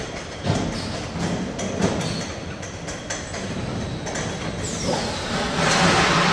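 Five-gallon bottle high-pressure washing machine running: a steady hum with scattered clanks and clicks from the mechanism. About five and a half seconds in, a loud steady hiss of the high-pressure washing spray sets in.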